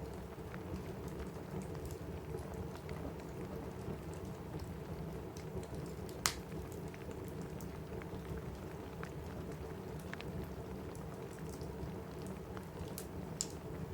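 Steady rain on a roof, with a fireplace crackling over it in scattered sharp pops. The loudest pop comes about six seconds in, and another near the end.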